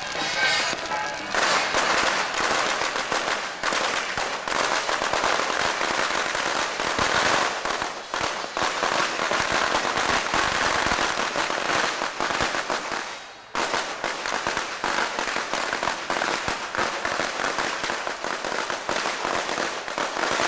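Strings of firecrackers going off in a dense, continuous crackling barrage, with a short lull about two-thirds of the way through before the crackling resumes.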